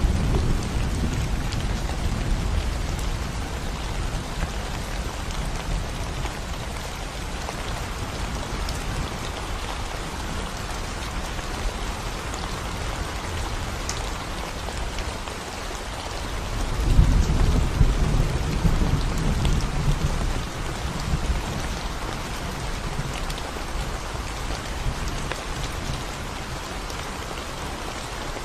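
Steady rain falling on a concrete road, a constant hiss of drops. Low rumbles of thunder fade out in the first couple of seconds and swell again for a few seconds past the middle.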